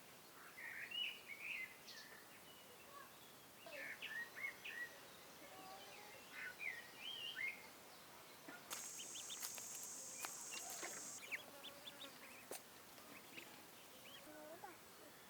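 Faint bird chirps: short, quick phrases that rise and fall, coming in several groups. About two-thirds of the way through, a high steady buzz lasts roughly two and a half seconds.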